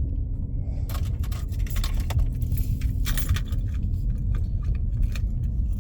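Steady low rumble of a car driving slowly, heard from inside the cabin, with light metallic jingling and clinking from about one second in until about three and a half seconds in.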